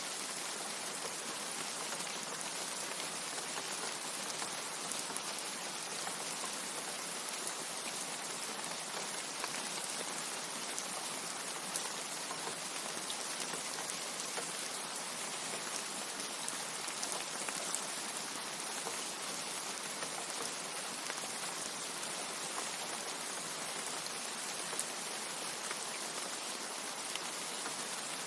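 Steady rain, an even hiss with a few sharp, close drop ticks scattered through it.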